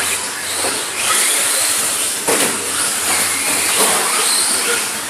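Radio-controlled cars running, a steady mechanical hiss and whine with no clear pauses.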